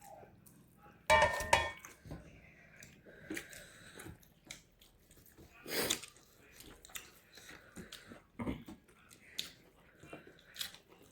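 Close-up eating noises: a person chewing and smacking through a mouthful of fish curry, with scattered short wet clicks. One louder, brief sound comes about a second in.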